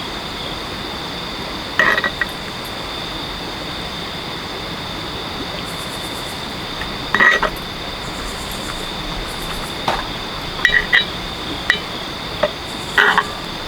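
A steady high-pitched drone with several short clinking sounds scattered through it, about seven in all.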